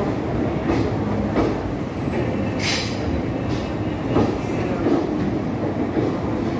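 Ratnachal Superfast Express running through a station, heard from on board: a steady rumble of wheels on rail with occasional knocks over joints and points, and a brief high-pitched burst about two and a half seconds in.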